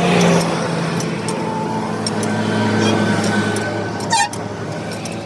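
A vehicle engine running steadily, with scattered sharp clicks or taps over it and a brief loud buzzy sound about four seconds in.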